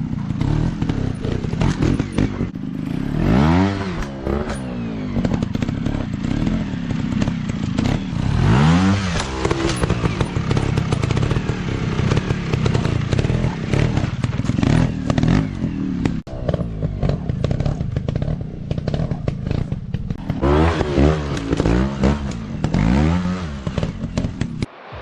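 Dirt bike engine revving up and falling back again and again, with clattering and knocks throughout.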